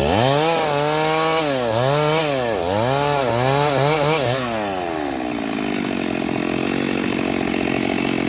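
Stihl MS382 two-stroke chainsaw revving up and down about four times, then dropping back to a steady idle about halfway through.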